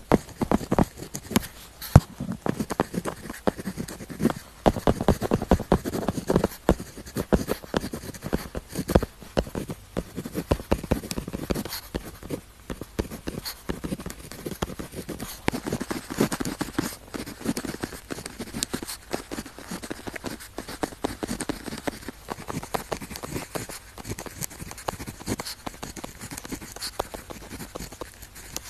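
Pen tip writing on paper: a continuous run of quick scratchy strokes and small taps, close to the microphone.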